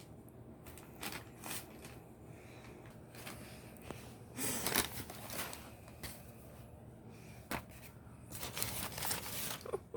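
Packing paper rustling and crinkling in irregular bursts as a cat plays in it, loudest about halfway through and again near the end.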